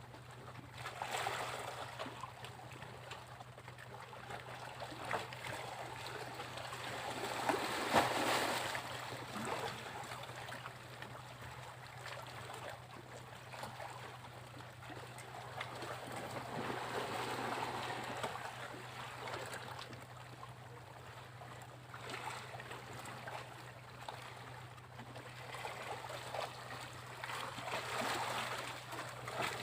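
Sea waves breaking and washing up a beach. Each surge swells and fades over several seconds, with one about every eight to ten seconds and the loudest about eight seconds in. A steady low hum lies underneath.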